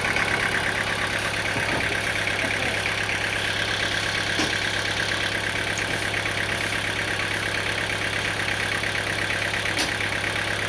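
An engine running steadily at an unchanging speed, with a few faint knocks over it.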